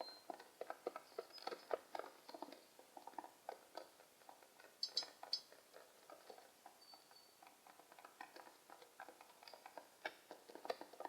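Pigeons making rapid, irregular tapping on a hard surface, several clicks a second, with a few short, faint, high chirps.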